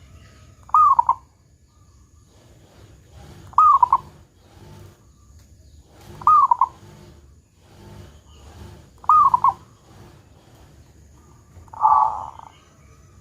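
Local zebra dove (perkutut) cooing: five short phrases of quick, falling coo notes, one about every three seconds, the last rougher than the others.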